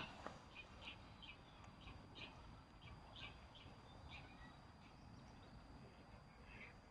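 Faint, scattered chirps of small birds: short calls spaced irregularly, about a dozen in all.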